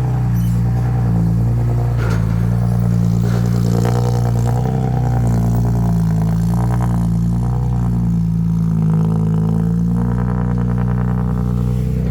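Heavy diesel machinery engine running steadily under load, its pitch rising and dipping a little as the throttle changes.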